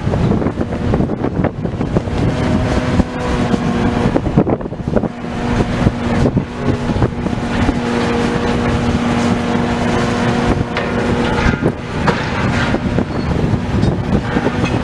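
Heavy demolition machinery with its diesel engine running steadily under load, mixed with irregular knocks and crunches of debris.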